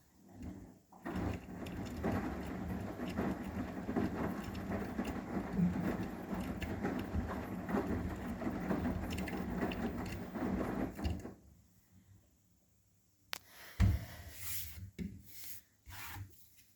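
Arçelik 9120M washing machine's drum turning with the wet laundry for about ten seconds, then stopping, the pause in its wash cycle. A few sharp knocks follow near the end.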